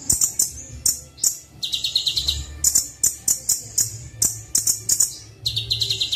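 Kolibri Wulung (sunbird) song from a training recording: sharp, very high chips repeated about four to five times a second, broken twice by a lower buzzing trill, about two seconds in and again near the end. A faint low hum runs underneath.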